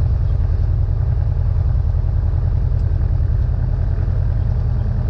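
Cessna 172N's four-cylinder Lycoming piston engine and propeller running steadily, a loud low drone with a fast, even pulse.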